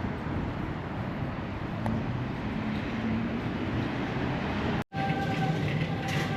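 Steady rumble of vehicle noise, with a brief dropout about five seconds in.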